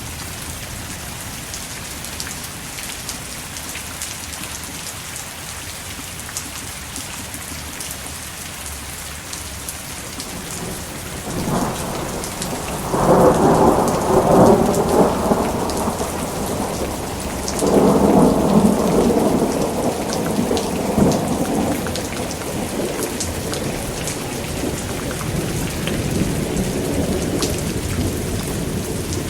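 Steady rain falling, with two long rolls of thunder, the first building about 11 seconds in and the second about 18 seconds in.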